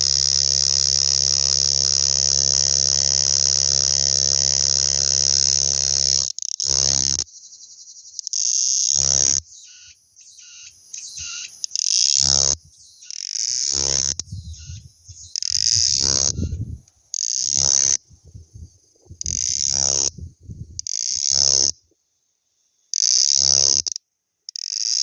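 A male Auritibicen intermedius cicada singing. It gives one continuous, loud, high buzzing phrase for about six seconds, then breaks into a series of shorter buzzes, each about a second long, with brief pauses between them.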